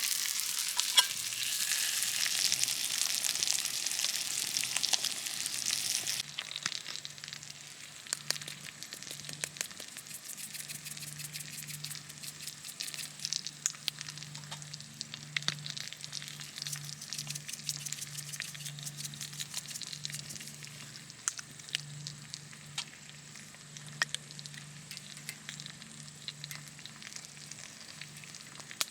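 Food sizzling and frying in a hot pan: a loud sizzle that drops off abruptly about six seconds in, then a quieter sizzle with scattered small pops.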